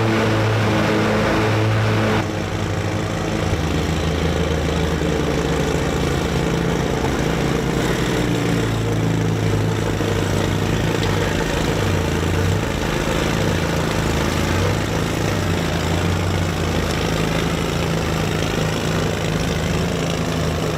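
Engine of a small hatchback car converted into a lawnmower, running steadily as it drives across a grass field mowing. Its pitch rises and falls a few times about halfway through.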